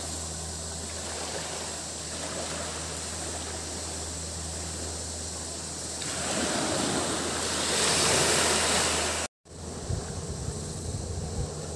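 Tropical surf washing onto a beach, with one wave building and breaking loudest about six to nine seconds in, over a steady high buzz of cicadas. Near the end the sound drops out completely for a split second, then comes back rougher and lower, with wind on the microphone.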